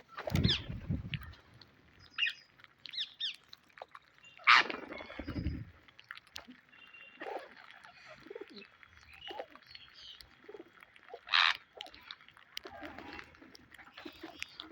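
Pet parrot calling and chattering in short separate bursts, with two louder calls, one a little after four seconds in and one around eleven seconds.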